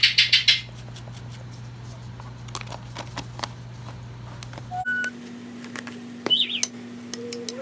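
African grey parrot vocalizing: a short, rapid, rattling squawk at the start, then scattered clicks, and a sharp rising whistle with a few short whistled notes near the end.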